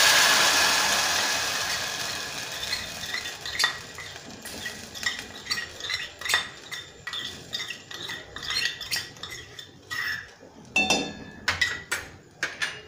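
Rice paste dropping into hot ghee in a stainless steel pot, sizzling loudly at first and fading over several seconds. Meanwhile a steel spoon scrapes and clinks against the steel bowl and pot rim, with a few sharper ringing clinks near the end.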